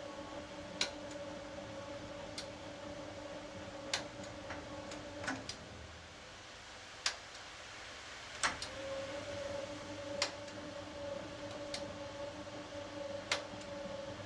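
HUWA Automatic Standard 4 washing machine running, its motor humming steadily with scattered sharp clicks. The hum stops about five seconds in and starts again about three seconds later.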